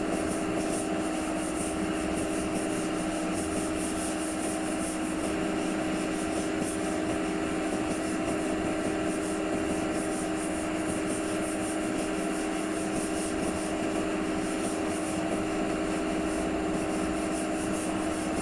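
A power tool's motor running steadily at one pitch, with a whir over a hiss.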